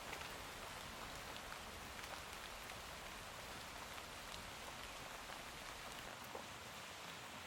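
Steady rainfall, an even hiss with many individual drops ticking on nearby surfaces.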